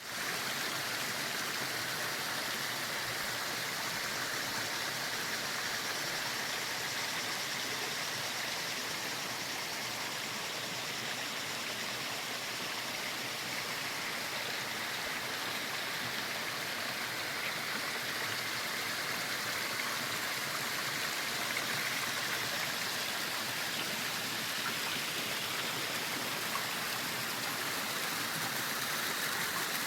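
A small river with waterfalls rushing steadily over its cascades: an even, unbroken hiss of falling water.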